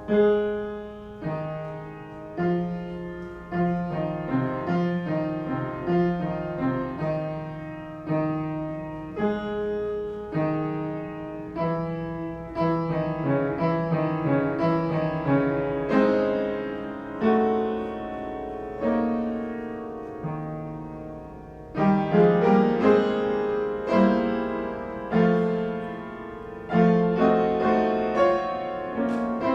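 Solo piano playing a slow, chordal piece, each chord struck and left to fade. It grows louder about two-thirds of the way through.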